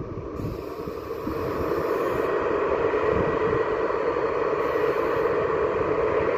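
A train running by: a steady rolling rumble that grows louder about a second in, then holds.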